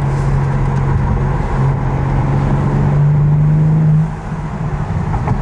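Car engine heard from inside the cabin, a steady drone whose pitch climbs gradually as the car accelerates, then falls away about four seconds in as the throttle is lifted.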